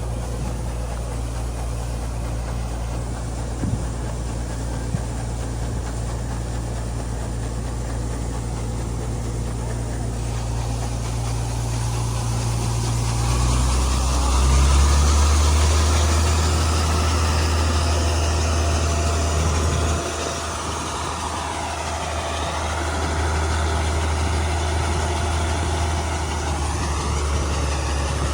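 Heavy farm machine's diesel engine running steadily. About 13 seconds in, its low hum drops in pitch and grows louder. Later a higher whine dips and rises again.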